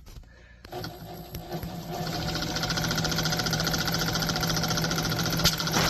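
Singer 111W industrial sewing machine starting up under power about a second in, picking up speed and then running steadily at about 1,000 stitches per minute with a rapid, even clatter. The mechanism has just been cleaned out and oiled and is turning freely.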